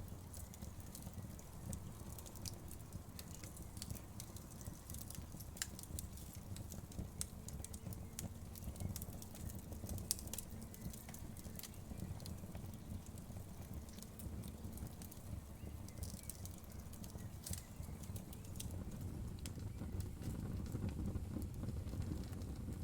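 Wood fire burning in a fireplace: irregular sharp crackles and pops of the burning wood over a steady low rumble of the flames.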